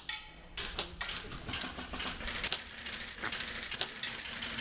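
Airsoft guns firing: scattered sharp cracks and clacks at an uneven pace, roughly one or two a second, over a light rattling.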